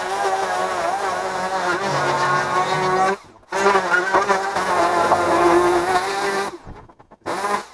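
Chainsaw running at high revs, likely cutting into the wall's timber, in two runs of about three seconds each with a wavering pitch, then a short blip of throttle near the end.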